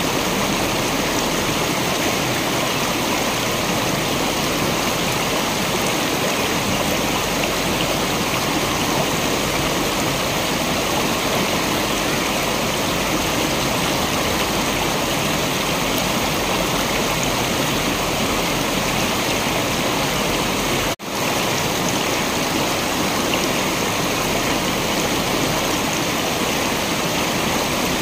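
Waterfall: steady rushing, splashing water, with one sudden brief dropout about three quarters of the way through.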